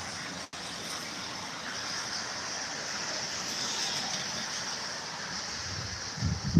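Steady hiss of heavy rain and water, cutting out for an instant about half a second in.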